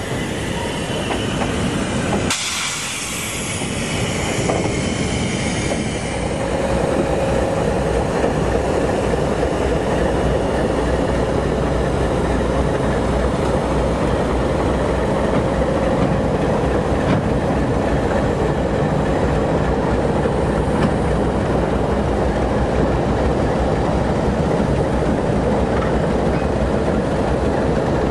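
Grain wagons rolling past with a faint high squeal, cut off suddenly about two seconds in. Then diesel locomotives, among them an ALCO 830-class unit, pass close by: engines running over the steady rumble of wheels on rail, growing louder a few seconds later.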